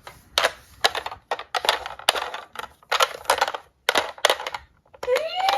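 Small diecast toy cars clattering: an irregular string of sharp clicks and knocks as they hit each other and a hard surface. About five seconds in, a siren starts up, rising in pitch and then holding steady.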